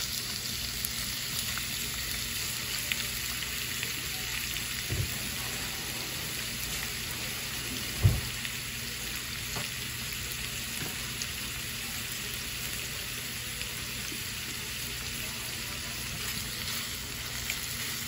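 Raw shrimp sizzling steadily in hot oil in a frying pan. A small knock comes about five seconds in and a louder thump about eight seconds in.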